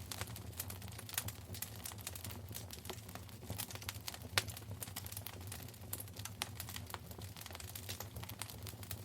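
Wood fire burning in a fireplace, crackling with dense irregular snaps and pops over a low steady rumble, one sharper pop about four and a half seconds in.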